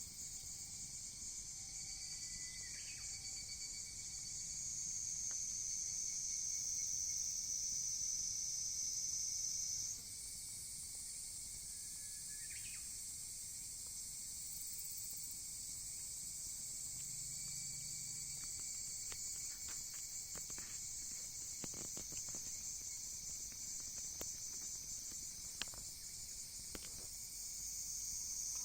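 Outdoor chorus of insects: a steady, high-pitched shrill that shifts up and grows louder about a third of the way through. A couple of short chirps and, later, a scatter of faint clicks sound over it.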